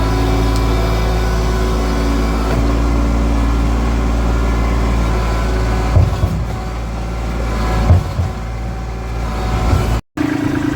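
Diesel engine running steadily at a low, even speed, with a couple of short knocks about six and eight seconds in.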